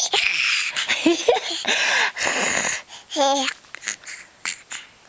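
A small child and her mother trading raspy, wheezy throat noises back and forth, in short breathy bursts. A few brief squeaks come about a second in, and a short voiced cry a little after three seconds.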